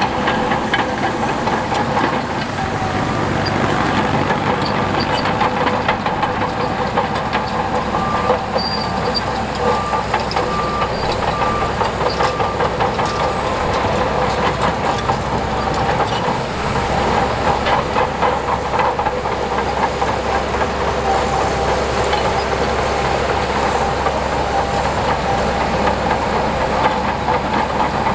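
Heavy diesel earthmoving machinery running, with steady engine tones and a continuous rattling, clanking din typical of crawler tracks. About a third of the way in, a reversing alarm beeps about eight times at an even pace and then stops.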